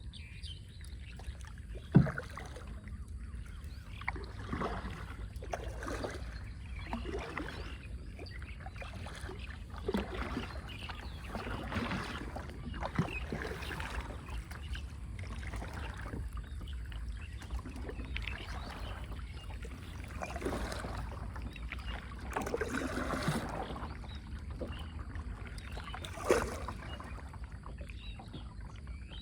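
Paddle strokes splashing in the water from a small boat, repeating every couple of seconds over a steady low rumble. Two sharp knocks stand out, the loudest about two seconds in and another near the end.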